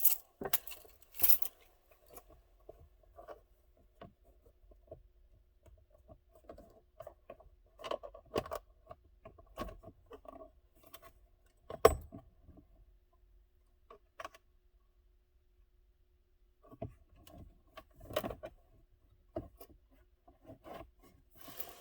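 Scattered light clicks, rattles and scrapes of hands working loose a car's plastic lower steering-column trim and its screws, with one sharper knock about twelve seconds in.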